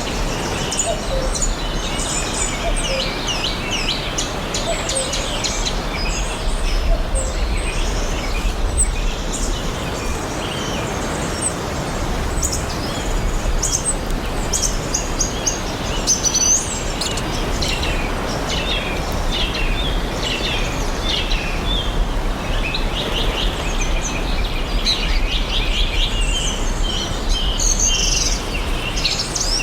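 Several songbirds chirping and trilling, many short quick calls overlapping throughout, over a steady rushing background noise.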